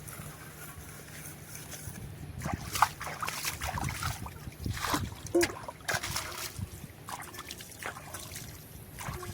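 Pots and utensils being washed by hand: water sloshing and trickling, with irregular clinks and scrapes of the utensils.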